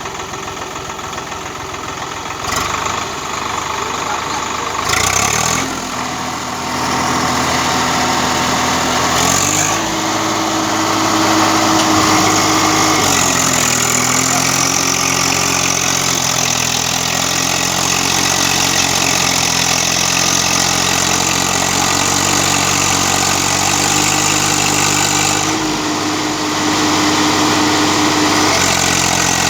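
Swaraj tractor's diesel engine running steadily, its revs rising about a third of the way in, easing back down a few seconds later and picking up a little again near the end. Two short knocks sound early on.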